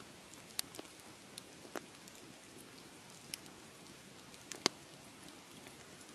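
Wood fire crackling: scattered sharp pops and snaps over a soft, steady hiss, with one louder pop a little past halfway.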